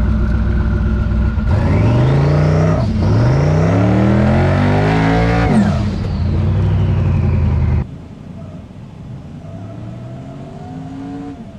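Twin-turbo engine of a 1962 Chevy Nova wagon race car running loud at idle, then revving hard and rising in pitch twice, with a drop between the two pulls. Near the end the sound falls suddenly to a quieter engine that is again rising in pitch.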